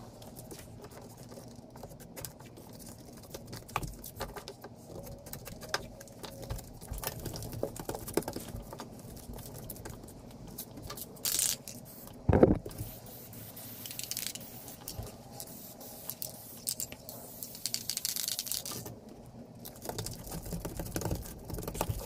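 Hands working foam deck-flooring pieces into place on a boat: scattered scrapes, rustles and light taps. One sharp knock comes a little past halfway, followed by a few seconds of hissing, rustling noise.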